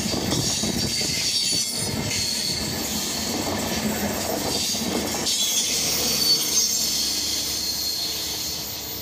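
Express train of LHB passenger coaches passing close at speed: a steady rush of wheels on rail with a thin, high whine over it, fading near the end as the last coach draws away.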